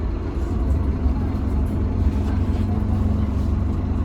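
Scania K310UB bus with its five-cylinder Scania DC9 diesel engine running while under way, heard from inside the cabin: a steady low rumble, joined by a steady hum about a second in.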